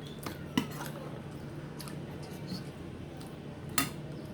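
Spoon clinking against dishes and plates while food is served: a few sharp clinks, two louder ones about half a second in and near the end.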